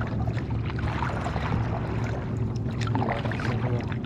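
Kayak paddle strokes dipping and splashing in the water beside a small inflatable kayak, over a steady low rumble.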